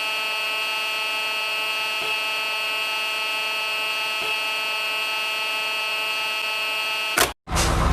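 A steady, unchanging machine-like drone at one pitch with many overtones, like a motor or buzzer sound effect, starting and cutting off abruptly.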